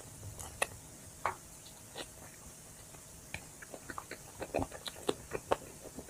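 Close-miked biting and chewing of chicken wings: a few separate crisp crunches early on, then a quick run of crunches and mouth clicks from about halfway through.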